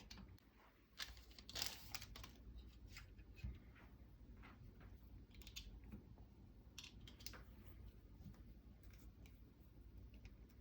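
Faint, scattered light clicks and taps of small metal parts and tools being handled while fitting nut plates, bushings and small screws into a rifle receiver.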